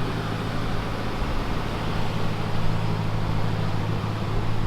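Pontiac GTO's V8 idling steadily, a low, even hum.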